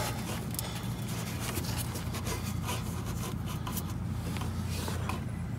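Rubbing and scraping of hands working plastic engine parts and wiring loose, with scattered light clicks, over a steady low hum.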